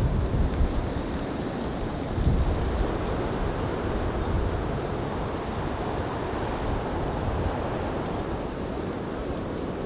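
Strong winter storm wind blowing in gusts, buffeting the microphone with low rumbles, the heaviest about two seconds in.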